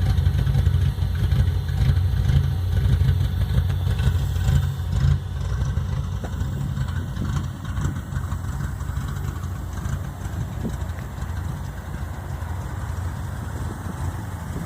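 Car engine idling through a new exhaust, a low rumbling note with an uneven, lumpy rhythm that the owner can't tell apart as a cam chop or a misfire. It is louder for the first five seconds or so, then settles a little.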